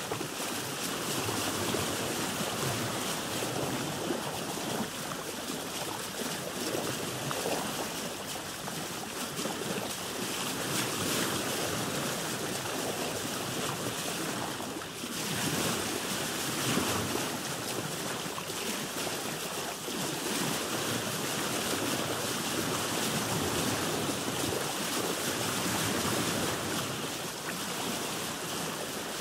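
Ocean waves washing and splashing around a boat, a continuous rushing that swells and eases, with a brief lull about halfway through.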